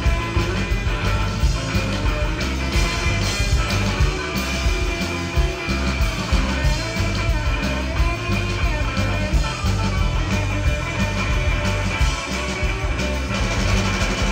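Rock band playing live, an instrumental stretch between sung lines, with steady drum hits.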